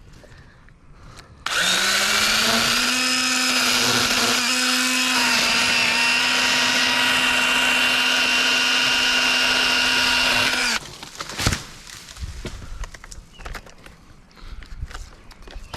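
Echo 3006 battery-electric pruning saw running for about nine seconds, most likely cutting through a limb: a steady motor whine that starts suddenly, rises a little in pitch as it comes up to speed, then holds and cuts off suddenly.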